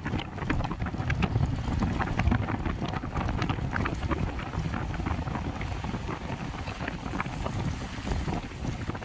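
Wind buffeting the microphone as a steady low rumble, with many small irregular clicks or splashes scattered through it.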